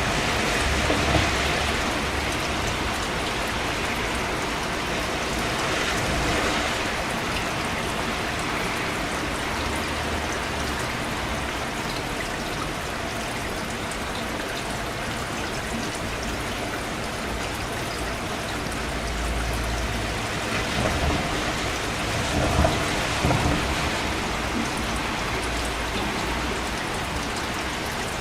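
Steady rain: a continuous, even hiss of falling drops, with a low rumble about two-thirds of the way through.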